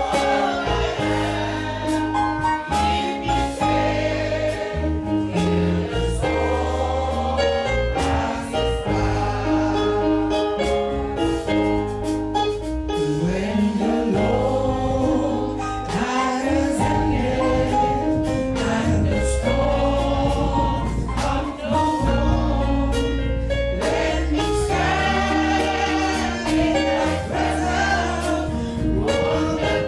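Gospel music: a choir singing with a band, with bass and drums keeping a steady beat.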